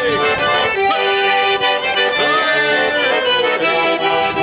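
Khromka garmon (Russian button accordion) playing a lively folk dance tune between chastushka verses, a steady run of chords and melody.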